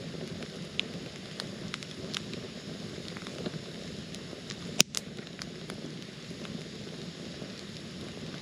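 Wood campfire crackling, with a steady low hiss and frequent sharp pops, one much louder pop about five seconds in.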